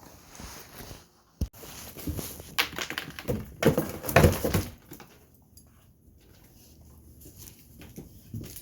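A dog quickly eating treats, with bursts of snuffling and crunching for a couple of seconds, and a single knock about a second and a half in.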